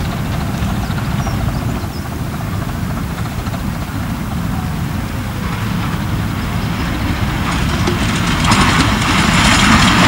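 Miniature railway train running with a steady low rumble that grows louder as it approaches. A hissing noise rises sharply near the end.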